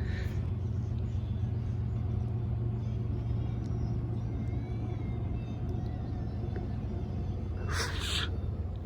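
Diesel freight train passing with a steady low rumble and faint high squeals. A brief, loud burst of noise comes near the end.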